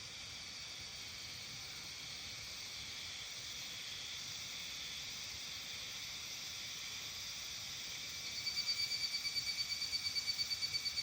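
A steady chorus of insects calling high-pitched. About eight seconds in, a nearer insect joins with a louder, fast pulsing call of about five or six pulses a second.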